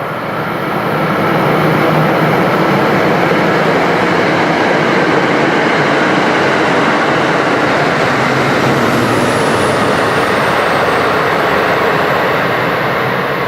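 MBTA commuter rail train passing at speed, its diesel locomotive and coaches making a loud, steady rush of wheels on rail. The sound builds over the first second or two and eases off near the end.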